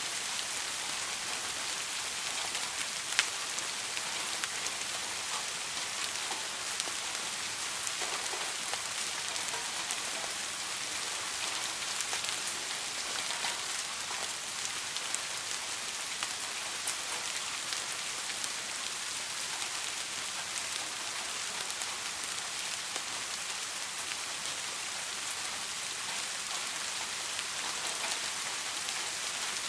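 Steady soft rain falling on a hard surface, a continuous hiss dotted with individual drop clicks, one sharper drop about three seconds in.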